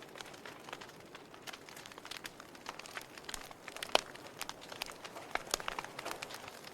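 Fire crackling, with irregular sharp snaps and pops over a faint hiss; one louder pop about four seconds in.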